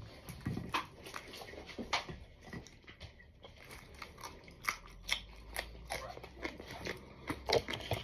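Close-up biting and chewing of a raw long green pepper: a string of crisp, irregular crunches.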